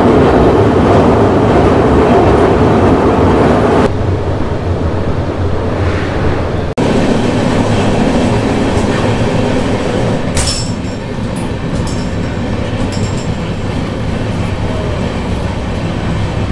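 Passenger train running at speed, a loud steady rumble of wheels on rails while it crosses a steel truss bridge. A little under four seconds in it steps down quieter, and after a sudden momentary dropout it goes on as a softer, steady running noise.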